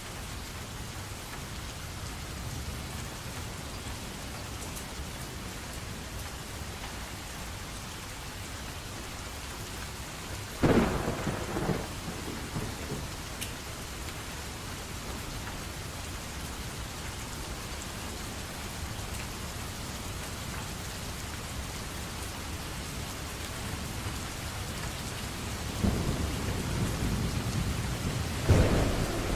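Steady rain falling, with thunder: a sharp clap about eleven seconds in, and a longer rumble building near the end.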